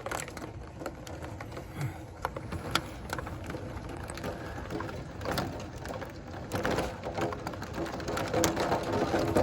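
Hailstones hitting window glass: irregular sharp ticks and clicks over a steady hiss of storm noise.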